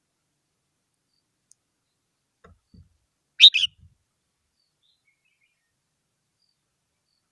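Red-whiskered bulbul giving one short, bright call in two quick parts about three and a half seconds in, with a few faint low knocks just before and after it.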